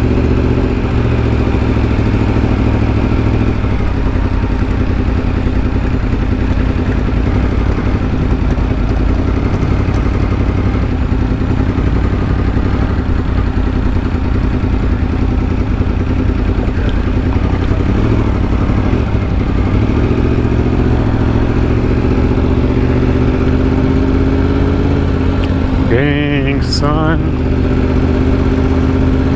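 Motorcycle engine running steadily at low speed as the bike rolls slowly along, a continuous low rumble. Near the end a brief wavering, warbling high-pitched sound cuts in over it.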